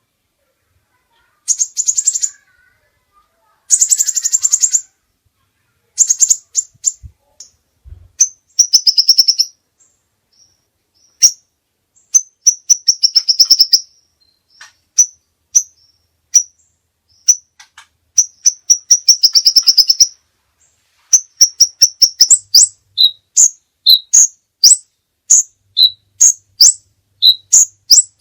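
A contest songbird singing: bursts of fast, high trills lasting a second or so each, then from about two-thirds of the way in a steady run of short chirps, roughly two a second, alternating between a higher and a lower note.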